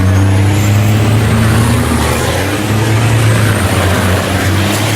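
Heavy racing trucks' diesel engines running hard on the circuit, a loud steady low drone with a faint rising high whistle near the start.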